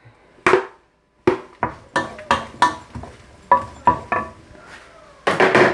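A metal utensil clinking and knocking against a cooking pan as onion goes in: about ten sharp ringing strikes, then a longer scraping noise near the end.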